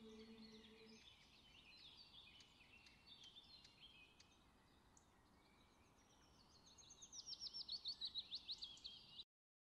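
Faint birdsong: scattered high chirps, then a fast run of sharp descending chirps, about five a second, that grows louder before cutting off suddenly near the end. A low held tone fades out in the first second.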